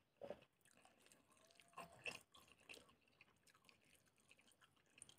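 Faint chewing and wet mouth clicks, a handful of soft smacks in the first three seconds.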